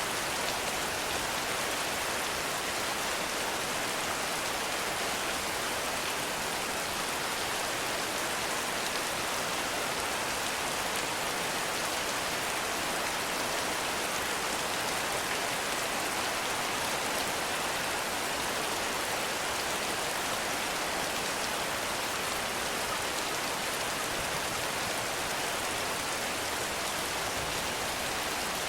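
Heavy rain falling steadily: an even, unbroken hiss of drops with no lulls or sudden sounds.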